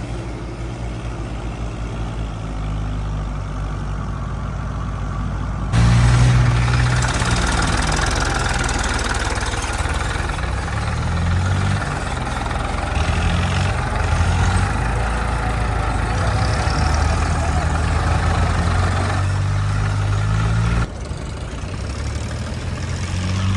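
Diesel engine running, its pitch shifting up and down as the load changes. The sound jumps abruptly louder about six seconds in and drops back suddenly near the end.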